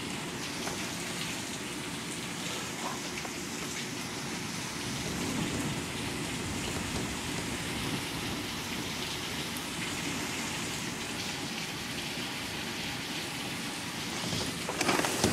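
Heavy rain pouring steadily in a severe thunderstorm, growing suddenly louder near the end.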